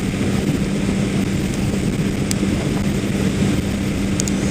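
A vehicle engine running steadily at a constant speed, with a steady hum under road and wind noise.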